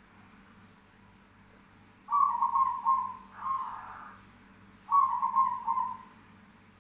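Zebra dove (perkutut) cooing: two rolling phrases of rapid coos, the first about two seconds in and the second about five seconds in.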